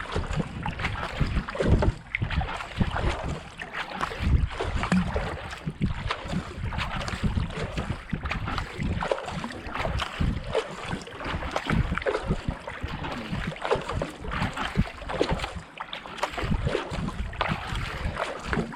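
Kayak paddle strokes dipping and pulling through the water in a steady run of splashes, with wind buffeting the microphone.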